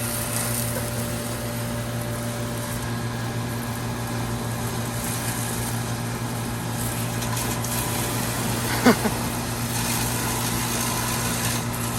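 Goodman central air conditioner condenser units running with a steady hum from compressor and condenser fan, while a garden hose sprays water onto the condenser coil to wash off pollen, the spray hissing unevenly. A brief sharp sound stands out about nine seconds in.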